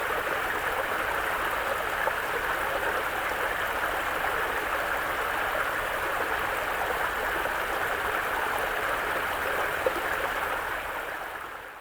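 Mountain brook running over rocks, a steady rush and babble of water; it fades out near the end.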